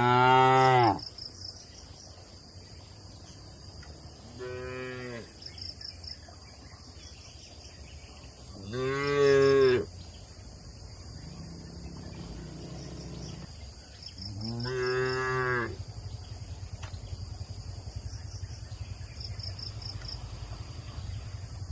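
Cattle mooing: four separate moos of about a second each, spaced a few seconds apart, with a quieter low call between the third and fourth. A low steady drone follows near the end.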